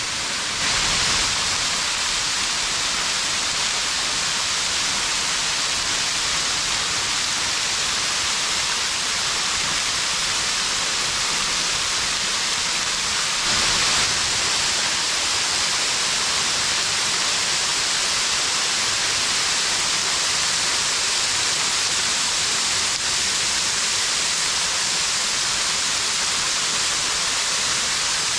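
Small seasonal waterfall flowing full after weeks of rain: a steady, even rush of falling water.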